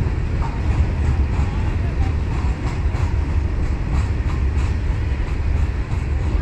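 Indian Railways open box freight wagons rolling past in a steady low rumble, with wheels clicking again and again over the rail joints.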